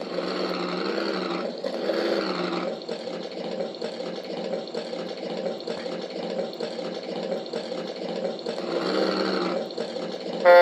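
Electronic sound module playing a simulated diesel tugboat engine through its small speaker: a steady, buzzy running note that swells briefly at the start and again near the end.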